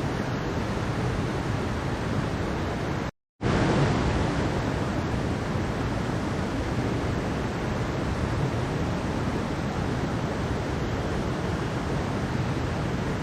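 Mountain stream water rushing in a steady, dense wash of sound. About three seconds in it cuts out completely for a split second, then comes back a little louder.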